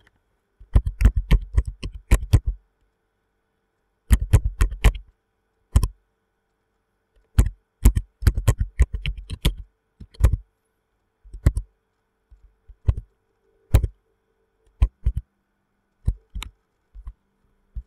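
Computer keyboard typing: quick bursts of key clicks with short pauses between them, as login credentials are typed in.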